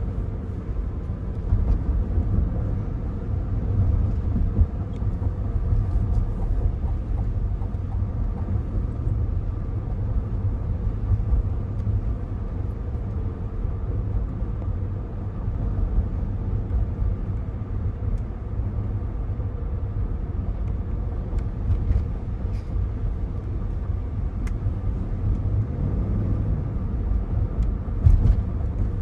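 Cabin noise inside a 2024 Cadillac Escalade ESV on the move: a steady low road rumble, with a few light knocks, the loudest a little before the end.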